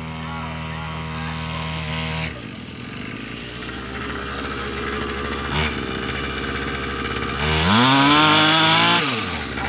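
Small dirt bike engine running, revved up about seven and a half seconds in and held high for over a second before the pitch drops back.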